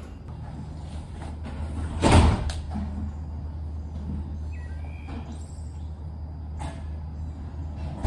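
A sudden loud thump about two seconds in, with a shorter one at the very end, over a steady low hum and a few bird chirps.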